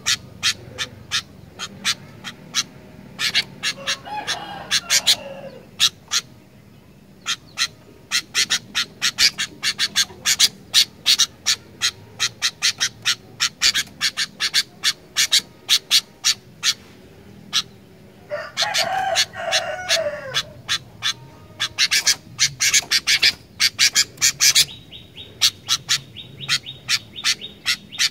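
Sooty-headed bulbul calling: a fast, irregular run of short sharp chips, broken twice (about four seconds in and again near twenty seconds) by a longer harsh chattering phrase that drops in pitch at its end.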